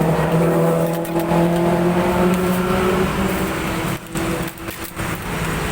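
A motor engine running with a steady, slowly wavering hum, dipping briefly about four seconds in.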